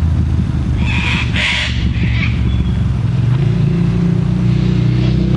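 Road traffic passing, a vehicle engine running steadily and growing louder in the second half. About a second in, a sulphur-crested cockatoo gives a harsh screech lasting about a second.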